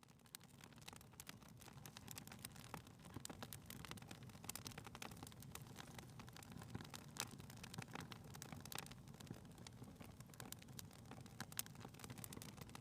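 Faint wood fire crackling in a fireplace: irregular small pops and snaps over a low, steady hiss.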